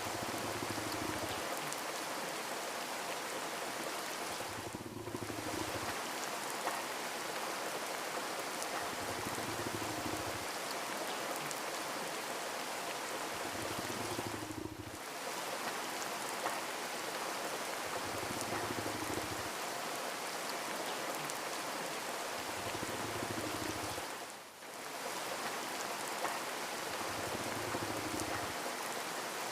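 Steady rain falling as an even hiss, with the sound dipping briefly about every ten seconds and a faint low pulse every four or five seconds.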